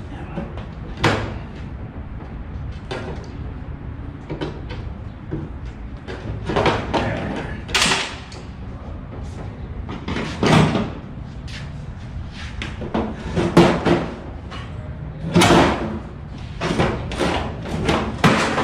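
Irregular metal knocks and clanks, a dozen or so, some with a brief ring, as a scrap part is worked apart by hand to free a cast aluminum piece. The loudest knocks come about halfway through and near the end.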